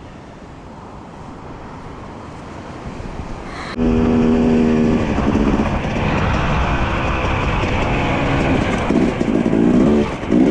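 Dirt bike engine running. Its sound comes in suddenly about four seconds in, after a quieter stretch of rising noise, holds a steady pitch, then revs up and down near the end.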